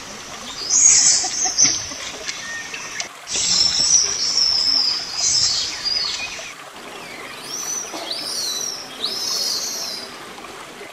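Birds chirping and whistling in high, shrill bursts, with rising-and-falling whistled calls in the second half. The recording changes abruptly about three and about six and a half seconds in.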